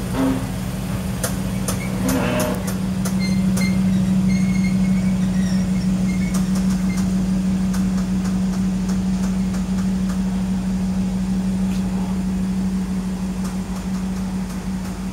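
2017 Mazda3 2.0's four-cylinder engine idling through an aftermarket mid pipe and single-can muffler with left and right exits: a steady, even exhaust drone.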